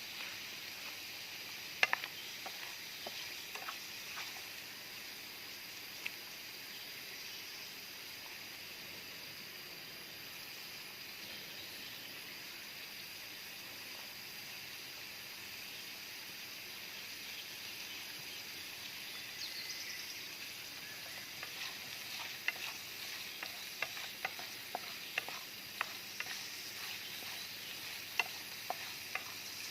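Food sizzling as it fries, with scattered sharp clicks and taps of stirring, thicker in the last third.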